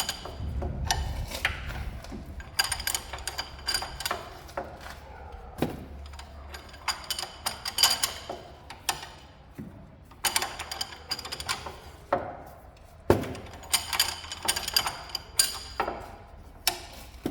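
Hand ratchet wrench clicking in repeated bursts of strokes, with pauses between, as a tight, stubborn suspension bolt is turned out.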